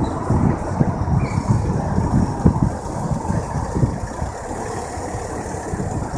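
Turbocharged 1.9 TDI diesel engine running with a rough low clatter, more uneven in the first half and settling steadier after about four seconds.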